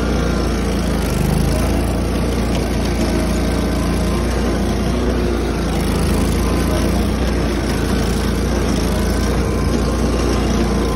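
Tractor engine running steadily at a constant speed, a low even rumble.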